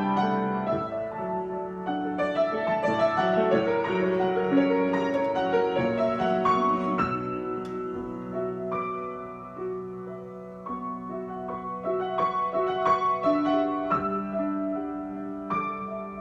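Solo piano improvisation: slow melody notes over held chords, with a soft passage in the middle before it builds again.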